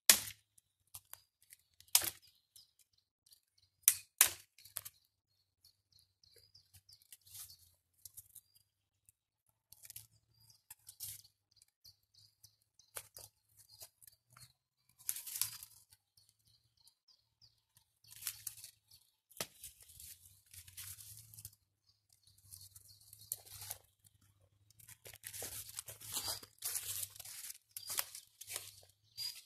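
Three sharp snaps in the first few seconds, then spells of crackling and rustling that grow busier toward the end, as of dry twigs and sticks being broken and handled for kindling. Faint bird chirps come through between them.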